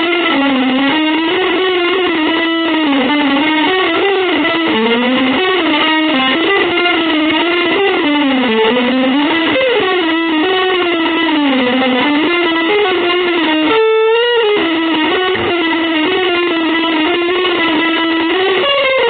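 Electric guitar with effects playing a sustained single-note line that slides slowly up and down in pitch, with a short warbling wobble about 14 seconds in.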